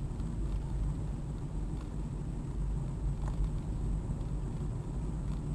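Steady low rumble of a car driving, engine and road noise, with a few faint ticks and a thin, steady high whine over it.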